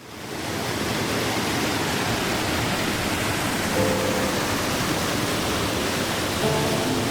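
A waterfall: a steady, dense rush of falling water, with background music faintly under it.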